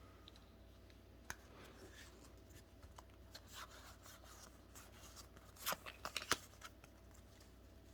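Faint rustling and a few soft clicks of Pokemon trading cards being handled and flipped, with a small cluster of clicks about six seconds in.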